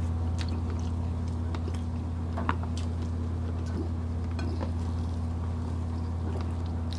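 Close-up eating sounds: chewing, with scattered small wet clicks and smacks as grilled chicken is eaten by hand, every second or so. A steady low hum runs underneath.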